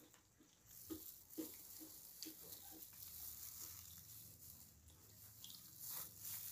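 Faint, wet eating sounds of fried chicken being chewed, with a few soft clicks and smacks.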